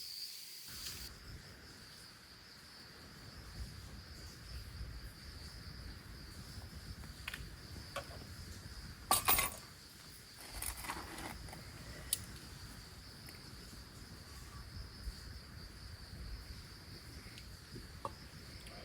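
Insects, crickets or similar, chirring in a steady high band, with a few short clicks and a brief clatter about halfway through.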